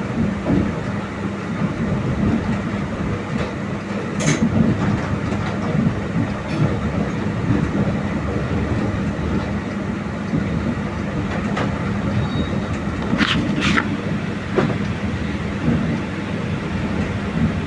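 Mumbai Mail express train running along the track: a steady rumble of wheels on rails with clatter, and a few sharp clicks about 4 seconds in and again around 13 to 14 seconds.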